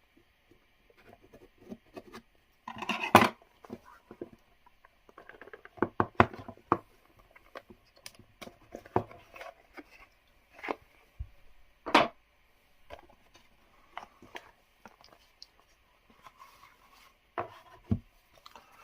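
A smartphone retail box being opened and its contents handled: scattered taps, scrapes and rustles of cardboard and packaging, with sharper knocks about three and twelve seconds in.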